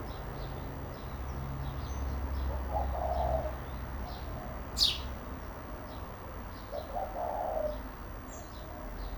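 House sparrows chirping in short, repeated high notes. One loud call sweeps sharply down in pitch about halfway through, and a lower call sounds twice.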